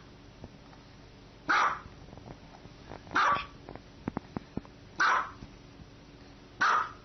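A dog barking single barks at an even pace, four times about a second and a half apart, with a few faint clicks between the second and third bark.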